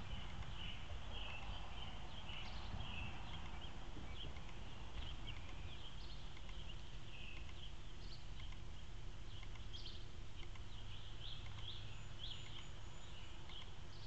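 Small birds chirping: many short, high calls scattered throughout, over a low steady background rumble.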